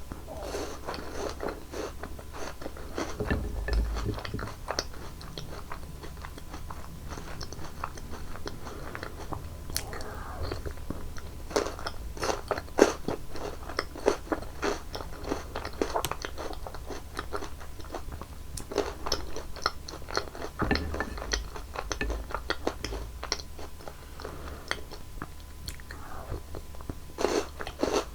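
Close-miked eating ASMR: a mouth biting and crunching through crisp chocolate candies, with many sharp crunches and chewing sounds that are busiest in the middle.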